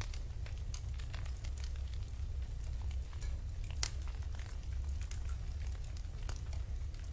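Wood fire burning in a fireplace, crackling with many small irregular pops and one sharper crack about four seconds in, over a steady low rumble.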